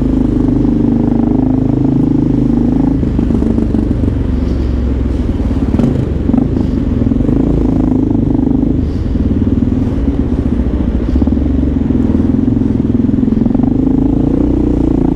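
Motorcycle engine running while riding, with road noise. The engine note eases off and picks up again a couple of times.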